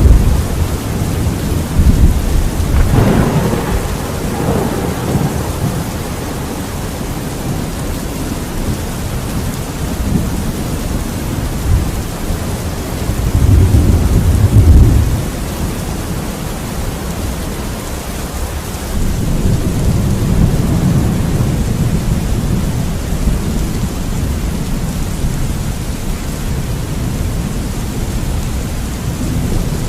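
Thunderstorm: steady rain hiss with rolling thunder, a louder low rumble about 13 to 15 seconds in and further rumbles around 3 seconds and 20 seconds.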